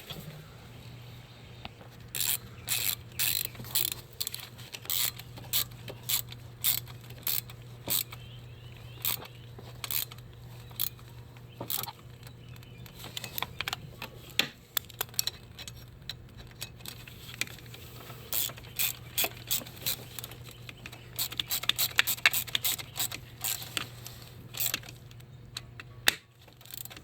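Hand ratchet clicking in repeated quick strokes as a bolt is run down, with short pauses between runs of strokes.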